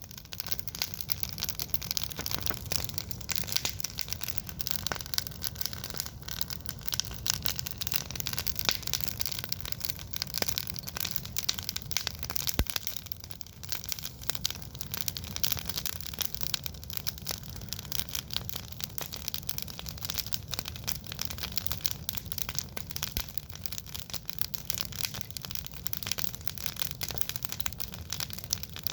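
Wood campfire burning, crackling and popping with many small irregular snaps.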